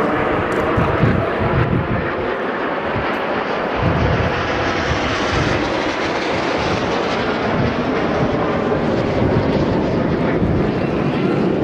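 Jet noise from Aermacchi MB-339 PAN jet trainers with single turbojet engines, flying their aerobatic display: a steady, loud rushing sound whose high hiss grows toward the middle and eases again near the end.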